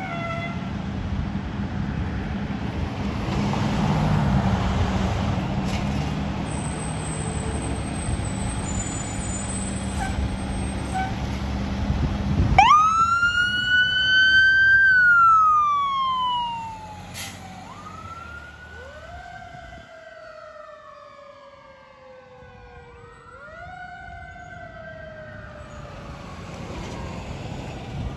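Fire engine's diesel engine rumbling, then about halfway through its siren starts with a sharp rise to a loud high tone that slowly winds down, followed by slower rising and falling wails.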